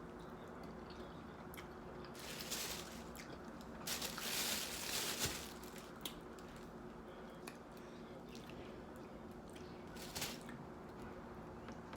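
Close-up eating sounds of a person chewing and swallowing soft fufu and stew: wet squishing with small mouth clicks, and a few louder bursts about two and a half, four to five and ten seconds in, over a faint steady hum.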